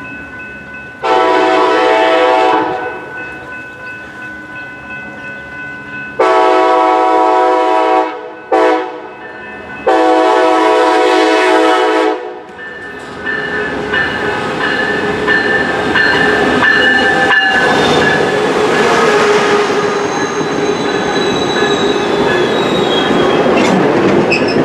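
Commuter train locomotive 5002's multi-chime horn sounding the grade-crossing signal: two long blasts, a short one and a final long one. The train then passes close by, wheels and cars running loud and steady over the rails.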